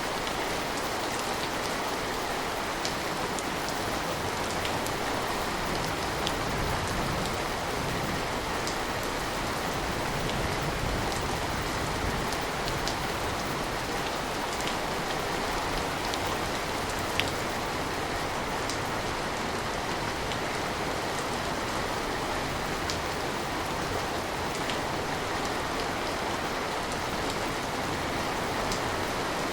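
Steady rain, with scattered sharper drop ticks.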